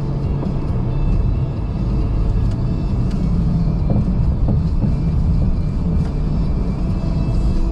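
A car being driven, heard from the cabin: a steady low rumble of tyre and road noise with the engine underneath.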